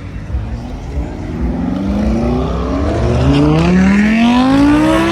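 A car engine accelerating, its pitch rising steadily for about four seconds and getting louder, then dropping abruptly near the end.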